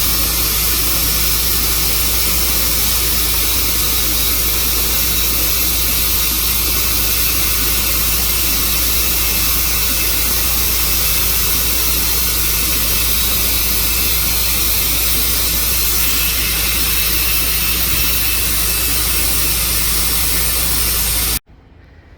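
Tru Cut bandsaw sawmill running steadily under load as its dull blade slowly cuts a slab through an elm crotch with nails and wire in it. The loud, even running noise cuts off abruptly near the end.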